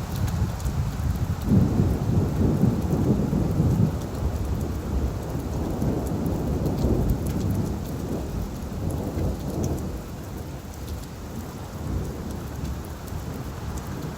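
Steady rain falling, with a long roll of thunder that swells in the first few seconds and fades away over about ten seconds.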